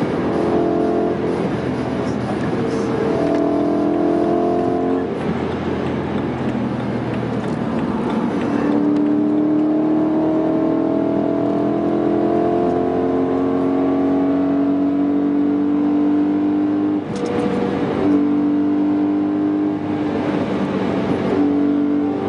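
BMW E92 M3's V8 heard from inside the cabin, pulling hard with its pitch climbing steadily through the middle, then breaking and dropping sharply at an upshift near the end, with several other gear changes along the way. Road and wind noise run underneath.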